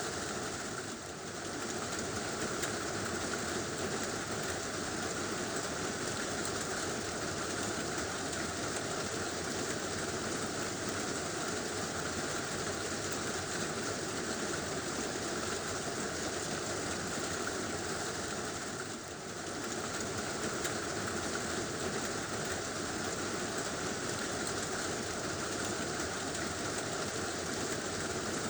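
Heavy rain drumming steadily on a tin roof, dipping briefly twice, about a second in and again past the middle.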